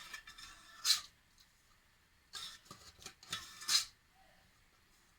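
Kitchen handling sounds: about five short scrapes and rustles, a second or so apart, with quiet in between.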